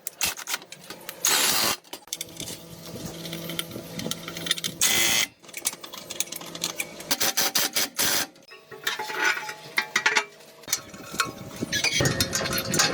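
Irregular clicks and knocks of hand work, with two short bursts of noise, about a second and a half and about five seconds in.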